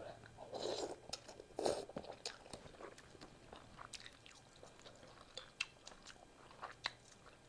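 Close-miked chewing of a mouthful of beef pho noodles: two louder bursts of mouth noise in the first two seconds, then many short, sharp, wet clicks as the food is chewed.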